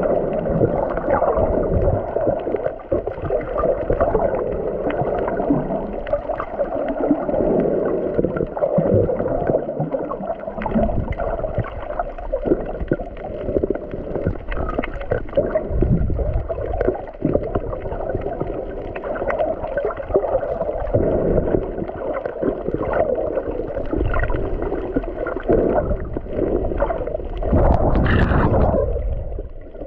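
Muffled water sloshing and gurgling recorded underwater, with crackling clicks and a low rumble. Louder swells of water noise come about halfway through and again near the end.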